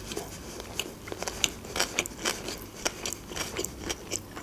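Close-miked chewing of a mouthful of sushi roll with the mouth closed: a steady run of small, irregular wet clicks and crunches, several a second.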